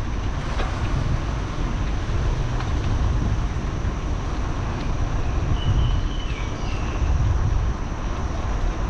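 Wind buffeting the camera microphone while riding, a steady low rumble over road noise. A faint, short high warble comes about six seconds in.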